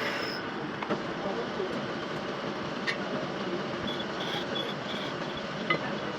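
Metal lathe running while machining: a steady mechanical noise with a few sharp clicks and, about four seconds in, a brief high thin tone.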